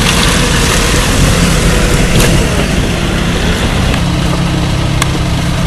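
Four-wheel-drive engines running steadily at idle and low speed, with a single sharp click about five seconds in.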